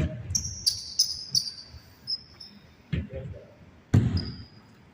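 Basketball game on an indoor court: sneakers squeaking in short, high, falling chirps, several in the first half and again near the end, with a basketball thudding on the floor twice, the second thud the loudest.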